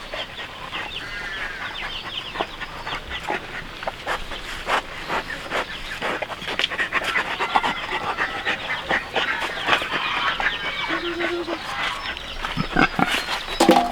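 Newborn piglets squeaking, with many short high-pitched calls overlapping throughout.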